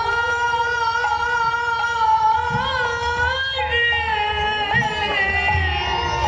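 Bengali Hindu kirtan singing: a voice holds one long, ornamented note that bends slightly in pitch. A few soft low drum strokes sound beneath it.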